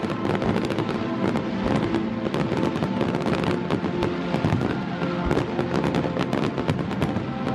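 Fireworks display with dense, rapid crackling and popping, many sharp bursts a second with no let-up.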